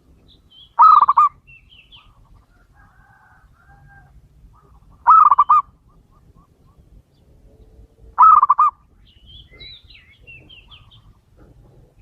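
Male zebra dove (perkutut) cooing: three short phrases of quick, rolling coos, each about half a second long and three to four seconds apart. Faint high chirps of small birds sound between the phrases.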